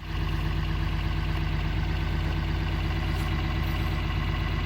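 An engine idling steadily with a deep, even drone, starting and stopping abruptly.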